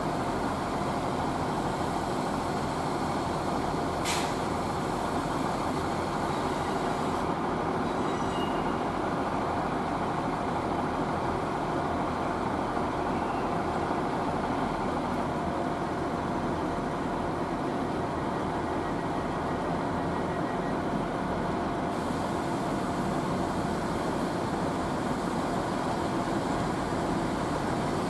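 A train standing at a station platform, its engine and equipment running steadily, with a short hiss of air about four seconds in.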